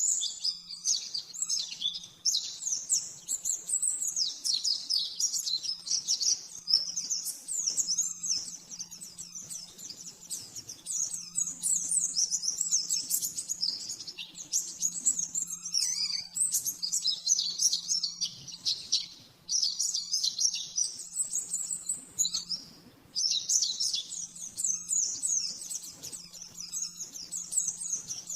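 White-eye (pleci) singing a fast, continuous twittering song of rapid high chirps and trills. There are a couple of short breaks past the middle.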